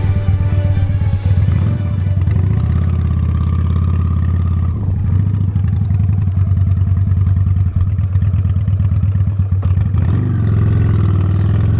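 Motorcycle V-twin engine running steadily under way, its pitch shifting a few times and changing with the revs near the end.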